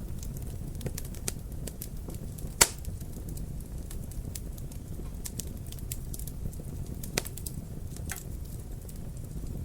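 Wood fire crackling in a fireplace: a steady low rumble of burning with scattered sharp pops, the loudest about two and a half seconds in and two more near the end.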